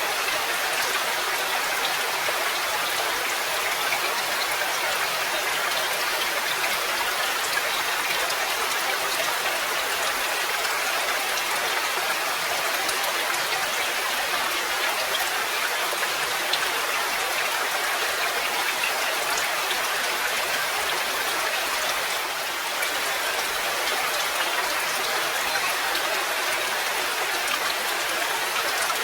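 Steady rain falling: an even, dense hiss with scattered sharp drop ticks, briefly a little softer about three-quarters of the way through.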